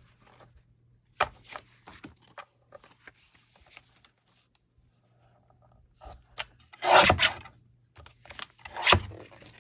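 Sheets of paper handled on a work surface: soft taps and rubbing, with a loud scraping swish about seven seconds in and another near the end as the paper slides.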